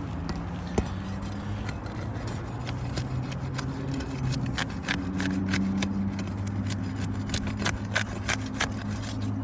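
Short sharp scrapes and clicks of asphalt shingles being pried and torn loose on a roof, coming thick and fast in the second half, over a steady motor hum.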